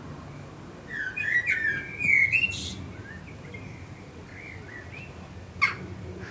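Bird chirping: a quick run of whistled chirps about a second in, a few softer chirps later, and one sharp chip near the end, over a faint low steady background noise.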